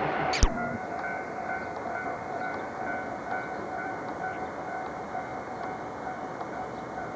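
A train at a station with a steady hum and a faint high whine. A sharp click comes about half a second in, where the recording cuts.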